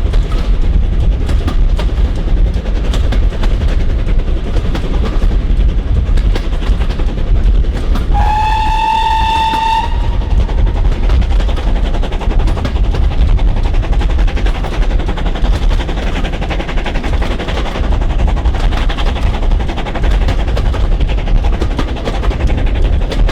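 Steam-hauled train running at speed behind GWR Churchward 2-8-0 heavy goods locomotive 2857, a steady loud rumble with rapid beats. About eight seconds in, a steam whistle sounds once for about two seconds.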